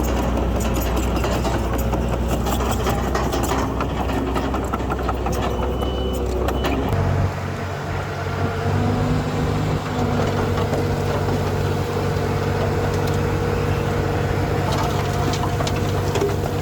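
Heavy diesel engines of earthmoving machinery running steadily. About seven seconds in, the deep drone changes to a higher hum after a brief dip in level.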